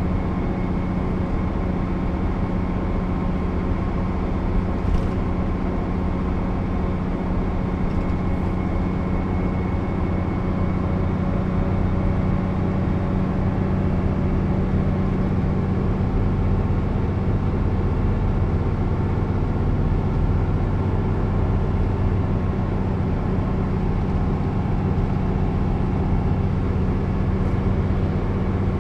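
Mercedes-Benz O 407 bus's diesel engine running steadily at a constant pitch, with no gear change.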